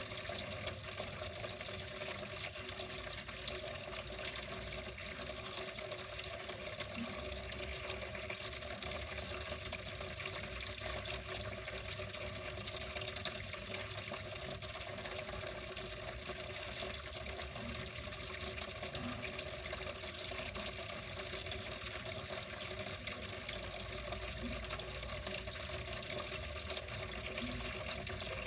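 Water flowing steadily, a continuous even splashing with no breaks or changes.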